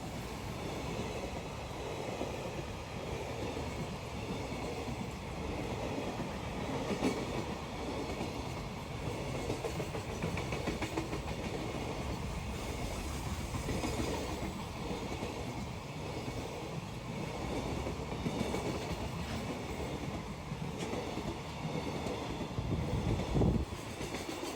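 A train running on the rails, a steady rumble of wheels on track with faint clicks, and a heavier low thump about a second before the end.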